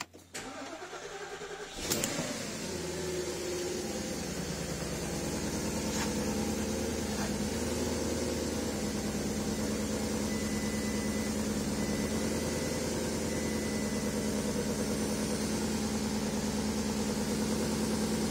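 Porsche Cayenne S (957) 4.8-litre V8 cranked by the starter for about two seconds, then catching and settling into a steady idle. It is the engine's first start after carbon was cleaned out of the intake ports.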